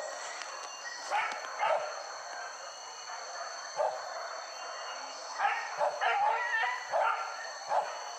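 Hunting dogs barking, in single barks and short quick runs of barks at uneven intervals, over a steady high-pitched hum.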